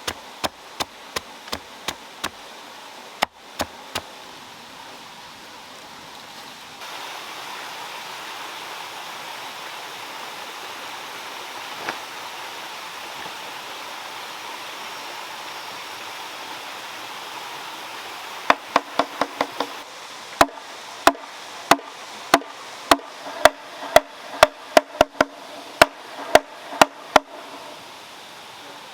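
Sharp, evenly spaced knocks of hand-tool blows, about two a second, at the start and again through most of the second half. Between the runs, a steady rush of flowing water.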